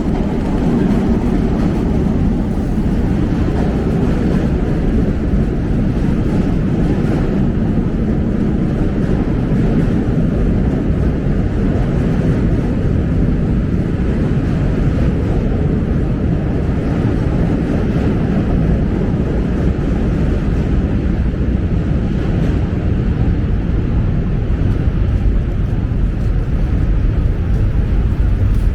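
Steady city street noise: a constant low rumble of traffic with a hiss over it, unbroken throughout.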